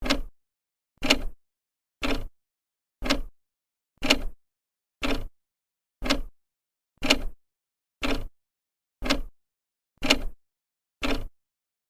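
Old clock ticking once a second, its second hand stepping with a short sharp tick that rings briefly.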